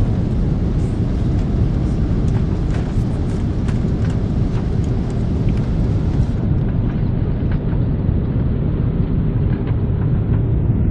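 Steady, loud low rumble of a moving vehicle, with faint scattered clicks. About six seconds in, the sound turns duller.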